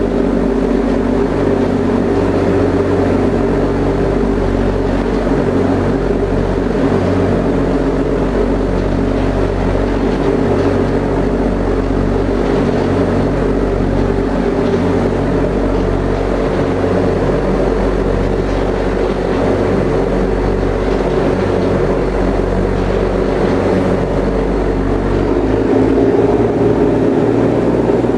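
High-speed passenger ferry's engines running steadily under way, heard on board, with a steady rush of water and wind over them. It gets a little louder near the end.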